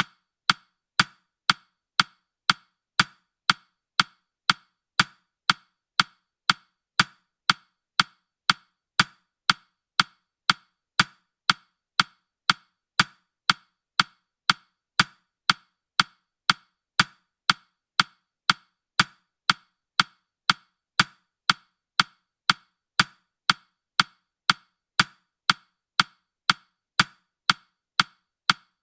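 Countdown timer's ticking sound effect: short, sharp clock-like ticks at an even pace of about two a second.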